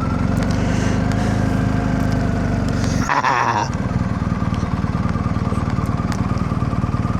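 Motorcycle engine, the BMW R1250GS's boxer twin, running steadily at low revs. The engine note breaks off briefly about three seconds in.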